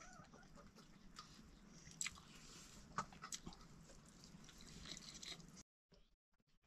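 Faint chewing and mouth sounds of someone eating rice and chayote curry by hand, with a few short clicks about two and three seconds in. The sound drops out briefly near the end.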